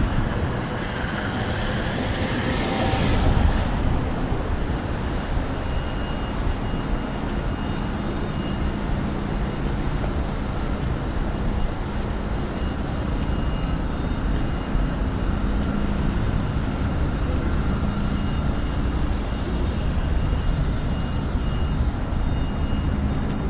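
Steady low rumble of vehicle traffic on a city street, with a louder hiss over the first few seconds.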